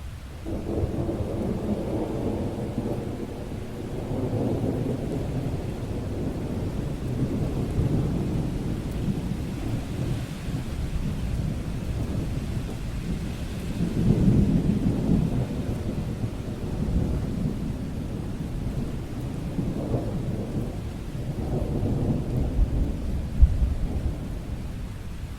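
Thunder rumbling in long rolling swells that rise and fade several times, the strongest about halfway through, over rain falling steadily.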